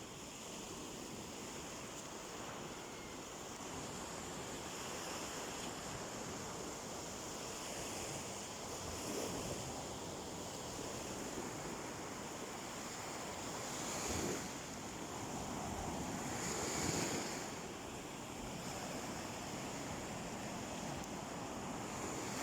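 Sea waves washing onto a beach: a steady surf hiss, with waves breaking more loudly about nine, fourteen and seventeen seconds in.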